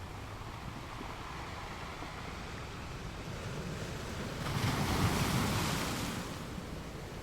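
Sea waves against rocks, a steady surf wash with a low rumble. About two-thirds of the way through, a wave breaks with a crash that fades over about two seconds.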